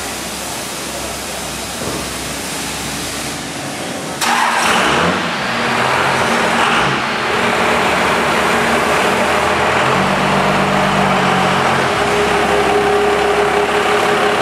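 Cummins diesel engine of a Dodge dually pickup, turning suddenly louder about four seconds in and then running steadily, its note shifting briefly near the ten-second mark.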